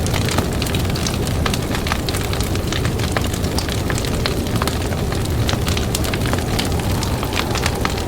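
Campfire crackling, with frequent sharp pops and snaps over a steady low rush of blizzard wind.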